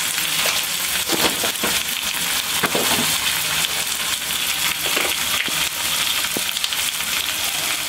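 Green chickpeas and onion sizzling in oil in a steel kadai, a steady frying hiss, with a spatula scraping and clicking against the pan now and then.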